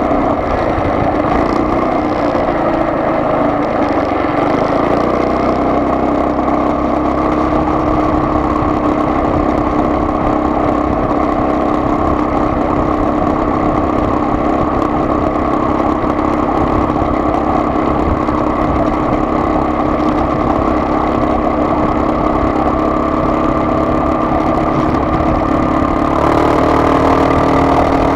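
Car engine and road noise heard from inside the moving car, a steady hum that steps up in pitch near the end as the engine revs change.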